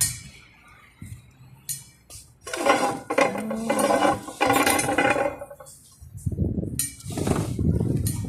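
Dishes and utensils clinking and clattering as they are handled, in short knocks and then a busier run of clatter. A low rumbling noise comes in near the end.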